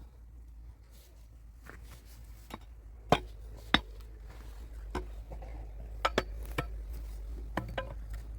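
Irregular sharp knocks and clinks of hard objects striking each other, the two loudest about three and four seconds in, then a quick pair around six seconds and a few lighter ones, over a steady low rumble.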